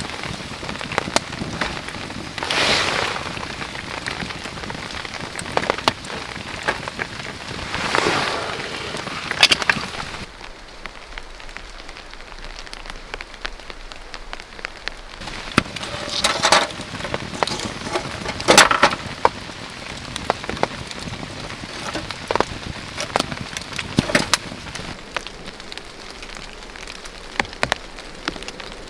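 Rain falling steadily, with many sharp individual drop ticks and a few louder swells lasting about a second each.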